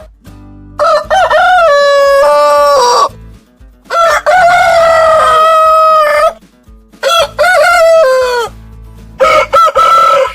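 Rooster crowing, four crows one after another, each ending in a falling note.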